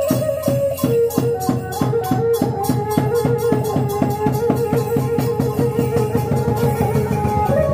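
Khmer chhay-yam ensemble playing: a fast, even beat of drums and cymbals under a held, wavering melody line.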